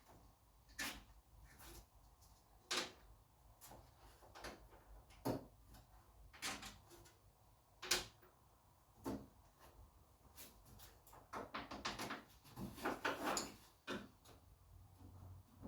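Scattered light clicks and clunks of small metal fixings (bolts, nuts and washers) being handled and fitted back together on a car door handle, with a closer run of knocks in the last few seconds.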